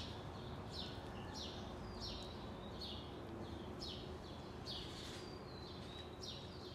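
A bird chirping over and over: short high chirps, each falling in pitch, about once or twice a second, over a faint steady hum.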